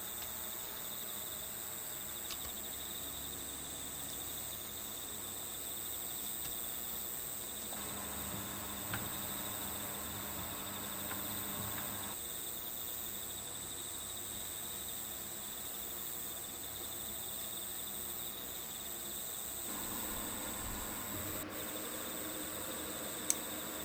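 Crickets chirping in a steady, high chorus, with a couple of faint clicks.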